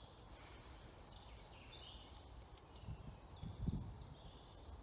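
Small birds singing, with many short, high whistled notes repeating, over a low rumble of wind on the microphone that swells briefly about three to four seconds in.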